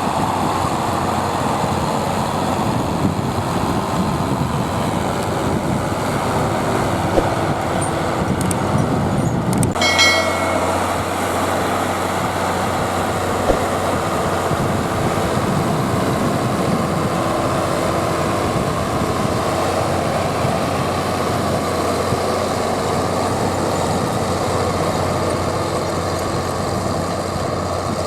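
Zetor Crystal 12145 tractor's six-cylinder diesel engine running steadily while pulling harrows across a field. About ten seconds in the sound changes abruptly, with a brief high whistle.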